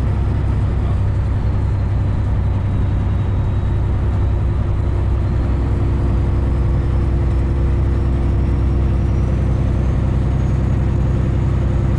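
Semi truck's diesel engine and road noise droning steadily at highway speed.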